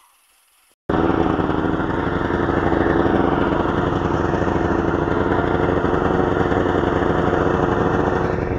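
A vehicle engine running steadily, cutting in abruptly about a second in.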